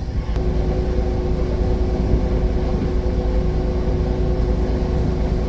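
Automatic tunnel car wash machinery running, heard from inside the car: a steady low rumble with a constant motor hum, one hum tone coming in shortly after the start.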